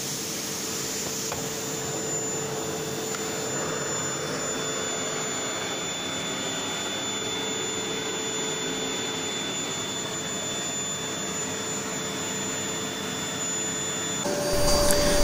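Fakir Ranger 4A vacuum cleaner motor running steadily: an even rushing of air with a constant high whine. Near the end its note steps up and grows louder.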